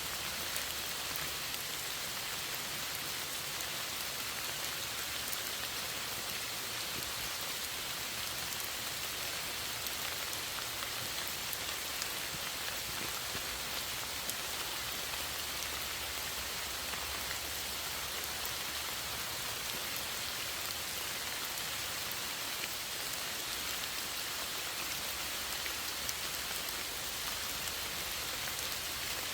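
Steady rain falling, an even hiss with scattered small drop pops.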